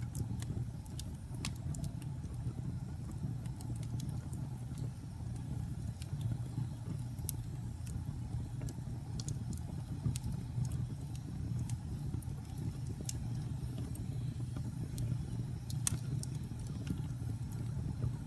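Fire burning, with frequent sharp crackles and pops over a steady low rumble of the flames. One louder pop comes near the end.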